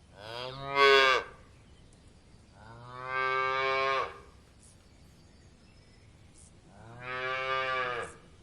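Cow mooing: three moos of about a second to a second and a half each, a couple of seconds apart, the first rising in pitch.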